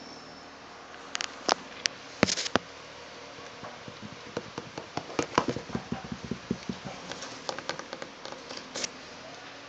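Irregular sharp clicks and taps: a few loud ones in the first couple of seconds, then a quick, uneven run of lighter taps, several a second.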